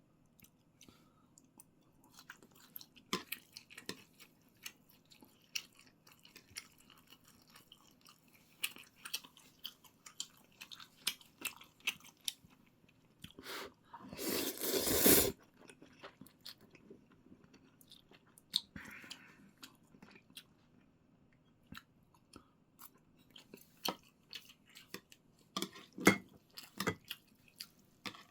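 A person eating noodles and meat close to the microphone: repeated chewing and mouth smacks, with a loud rush of noise lasting about a second and a half halfway through.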